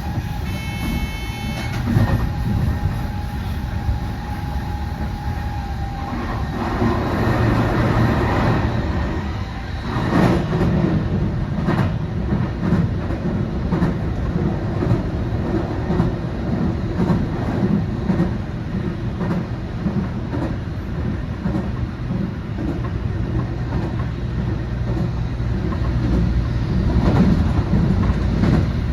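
A train running on rails, its wheels clacking over rail joints in a repeating rhythm, getting louder from about six seconds in.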